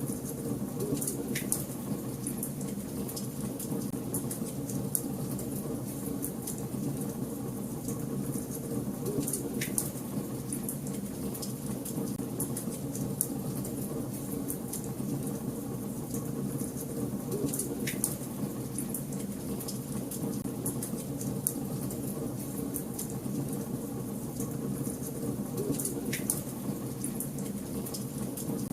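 Wood fire burning in a fireplace: a steady low rush of flame with constant small crackles, and a few louder pops spaced several seconds apart.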